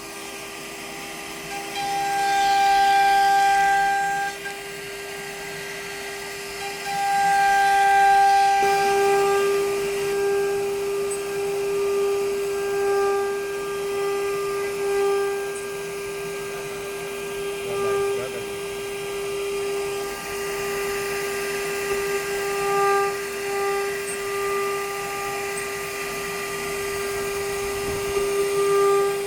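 CNC machining centre's spindle whining at a steady high pitch, with hiss. Two louder swells come in the first nine seconds, and smaller ones follow.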